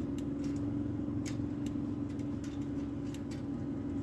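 A steady low motor hum with irregular light clicks and taps over it, several a second at times.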